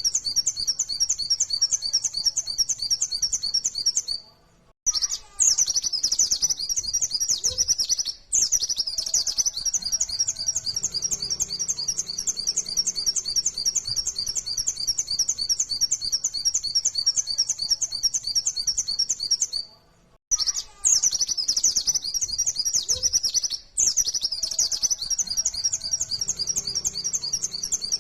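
White-eye (pleci, Zosterops) singing a fast, unbroken run of high chirping notes, the rapid 'nembak' song. The song stops briefly twice, and the same passage comes round again, as in a looped recording.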